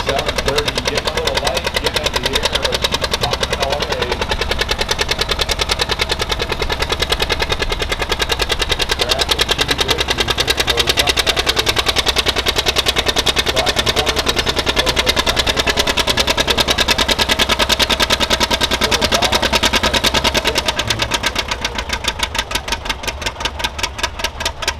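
Vintage John Deere pulling tractor's engine running hard and steadily with a fast, even exhaust beat. Near the end the beats grow slower and more distinct as it throttles back.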